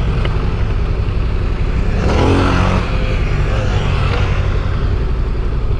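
Ducati motorcycle engines running steadily under way, with a louder swell of revs about two seconds in.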